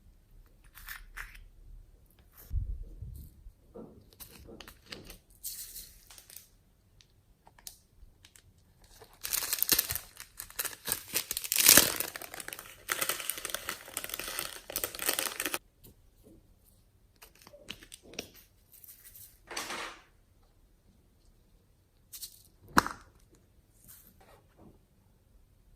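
Slime being squished, stretched and mixed by hand, with sticky crackling and popping sounds. A dense run of crackling starts about nine seconds in and lasts about six seconds, and there is one sharp click near the end.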